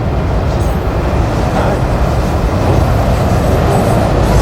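Freight train cars rolling past at close range: a steady, loud rumble of steel wheels on rail, growing a little louder near the end.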